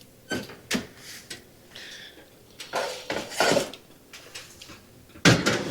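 Metal baking pan of potatoes clattering against the oven rack as it goes into the oven. There are a few sharp knocks in the first second or so, a longer scraping rattle about three seconds in, and a louder clank near the end.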